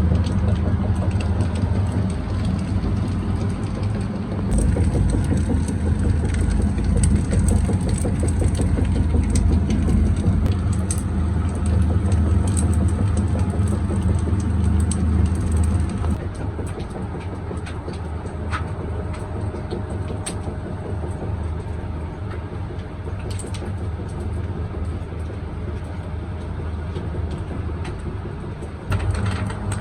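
Workshop machinery running steadily with a low hum and scattered sharp clicks; the hum drops noticeably about halfway through.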